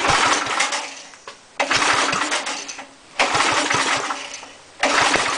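Briggs & Stratton engine on an air compressor being pull-started with the choke on: four pulls about a second and a half apart, each cranking the engine briefly and dying away without it catching.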